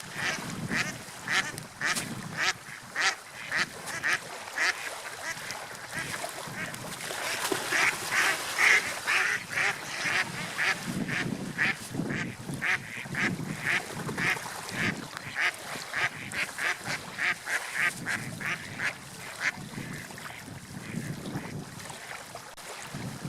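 Birds giving a long run of short, repeated calls, about two to three a second, over a steady background hiss.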